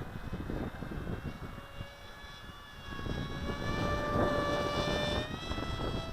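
Crash Test Hobby Scythe RC flying wing's electric motor and propeller whining as it flies. The whine grows louder about halfway through and rises in pitch near the end, with wind gusting on the microphone.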